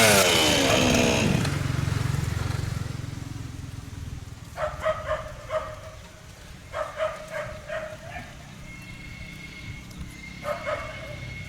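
A dog barking in short bursts, several quick barks at a time, over a low engine rumble that fades away in the first few seconds.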